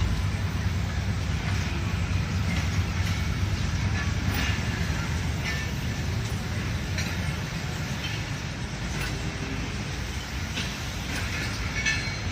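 Passenger train pulling out of the station: a steady low rumble of the locomotive and coaches, easing slowly in level, with a few faint clicks.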